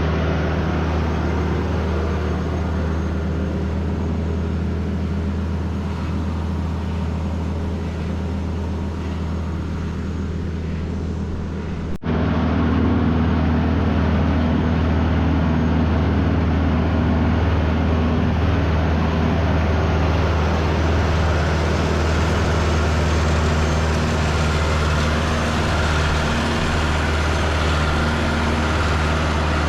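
Tractor engine running steadily while driving with a load, a constant low hum. About twelve seconds in it breaks off for an instant and comes back a little louder.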